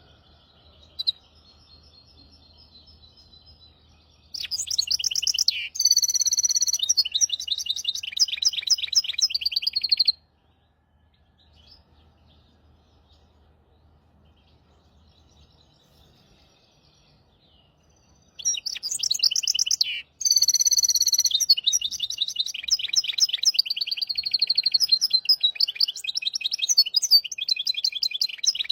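Hybrid finch singing: two long phrases of rapid trills and rattling notes, the first starting about four seconds in and lasting some six seconds, the second starting past halfway and running on, with soft scattered chirps before and between. A short click sounds about a second in.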